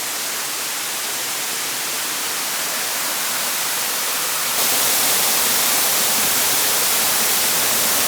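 Rushing water of the stream that feeds a waterfall, a steady hiss that jumps louder about four and a half seconds in.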